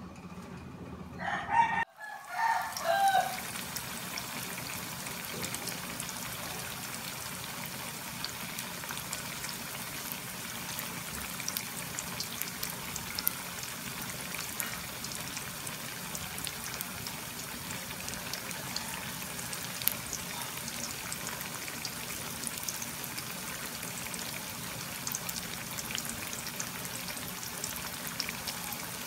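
Slabs of tofu frying in oil in a stainless steel skillet: a steady sizzle flecked with small crackles. In the first three seconds, two brief pitched calls that glide up and down are heard over it.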